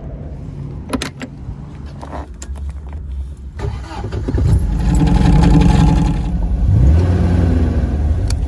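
Car engine running and revving, getting louder and rising in pitch about four to seven seconds in, with a few sharp clicks about a second in.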